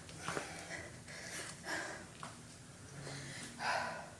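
A woman breathing hard through a set of lunges, with sharp exhales about two seconds apart. A light knock comes about a third of a second in.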